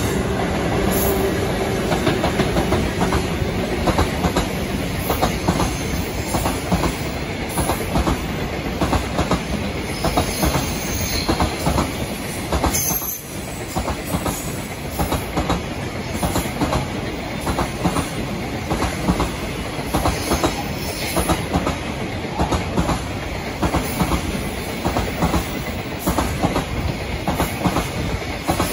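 Freight train passing: a JR Freight EF210 electric locomotive followed by a long string of container wagons, the wheels clattering over rail joints in a rapid, steady rhythm.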